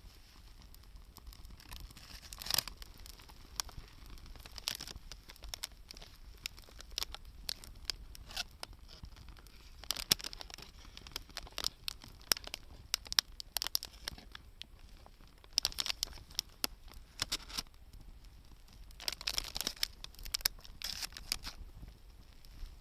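Wood campfire crackling, with sharp pops that come in quick flurries several times over a low hiss.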